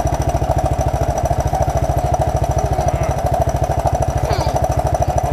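1981 Honda XL185's air-cooled single-cylinder four-stroke engine running at a low, steady speed, an even thumping of about ten beats a second.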